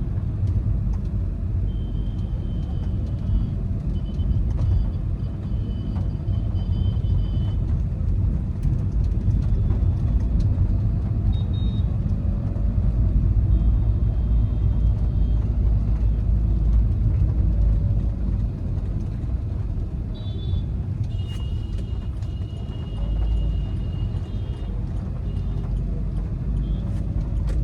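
Cabin noise of a moving Volkswagen Vento 1.5 TDI diesel: a steady low rumble of engine and tyres on the road. High-pitched tones come and go several times over it.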